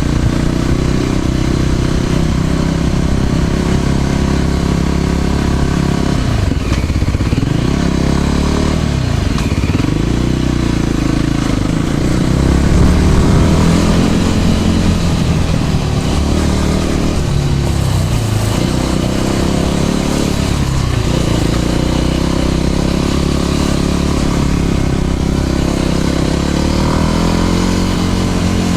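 Motor scooter engine running while riding in traffic, its pitch dropping and climbing again several times as it slows and speeds up, over a steady rushing noise.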